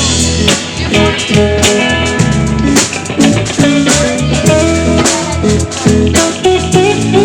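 Live rock band playing an instrumental passage: electric guitar and bass over a drum kit keeping a steady beat, with no vocals.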